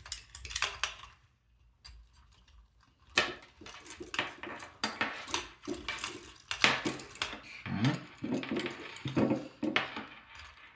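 Hands working cables through slots in a plastic robot-kit body: irregular clicks, taps and rustles of plastic parts and wire being handled.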